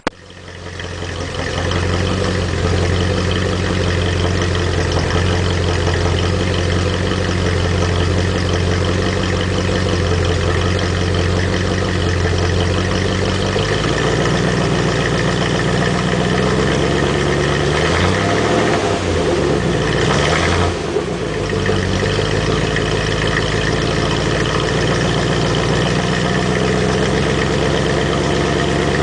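Exhaust of a 1971 Triumph Stag's original 3.0-litre V8, idling steadily. About eighteen seconds in the revs rise and fall a couple of times in short throttle blips, then it settles back to idle.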